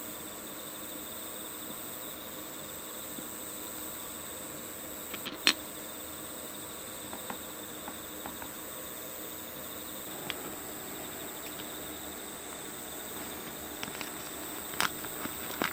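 Steady high cricket chirring. A sharp click comes about five seconds in, a few faint clicks follow, and a run of light clicks and taps starts near the end.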